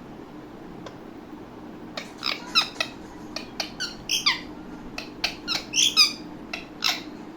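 Indian ringneck parakeet giving a quick run of short, sharp squawks and clicks, starting about two seconds in and lasting some five seconds.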